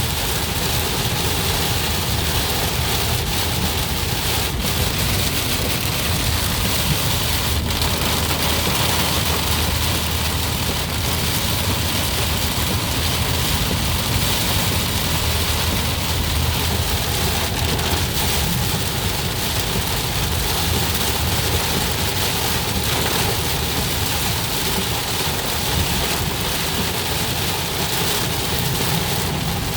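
Heavy rain falling steadily on a car's roof and windshield, heard from inside the cabin, over the low hum of the car driving on a wet road.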